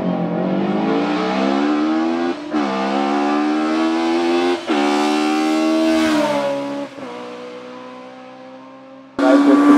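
Hill-climb race car engine accelerating hard, its pitch climbing and dropping sharply at two upshifts about two and a half and four and a half seconds in, then backing off and fading away. A louder engine sound starts abruptly near the end.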